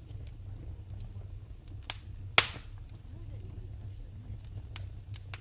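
Fire burning in a fireplace: a steady low rumble with sparse crackles, and one loud pop a little before halfway.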